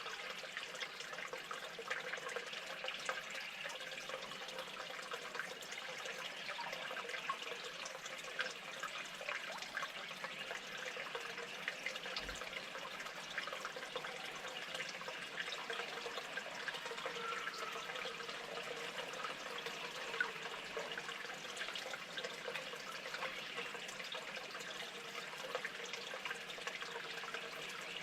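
Steady running water, with many small splashes and drips.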